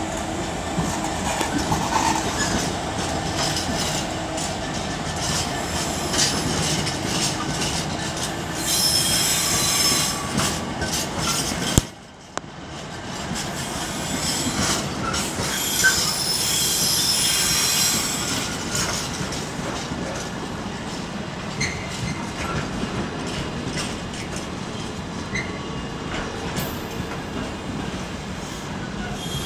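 Container freight train hauled by a Class 66 diesel locomotive, its flat wagons rolling past on the rails with a steady rumble of wheels. A high wheel squeal comes in twice, around nine to eleven seconds in and again from about fifteen to eighteen seconds. The sound drops away sharply for a moment just before twelve seconds.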